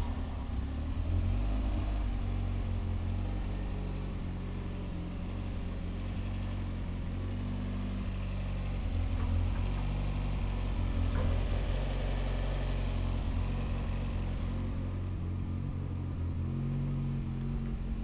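Turbocharged 1.6-litre Mazda Miata four-cylinder engine running steadily at a low, even idle on its first start-up after a full rebuild.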